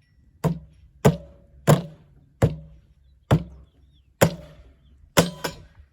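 A tank water heater's steel shell being struck hard over and over with a heavy tool, about eight blows roughly a second apart, each with a short metallic ring.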